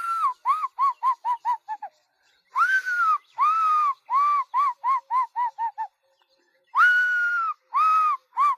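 A man imitating the call of an African fish eagle. He gives three phrases, each one or two long, high, arched notes followed by a quickening run of short, falling notes.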